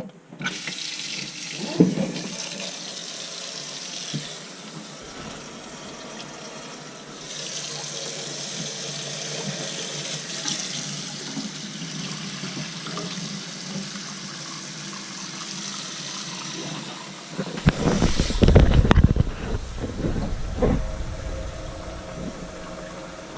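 Water running steadily from a tap, then a few seconds of louder, uneven rushing and knocking about three-quarters of the way through.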